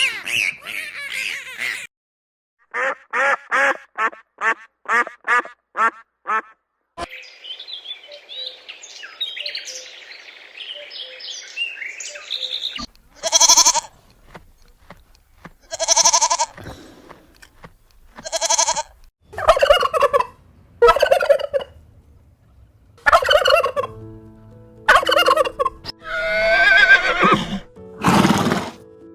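Domestic turkeys calling and gobbling in several short cuts: first a quick run of calls about three a second, then a softer warbling stretch, then loud single calls every second or two.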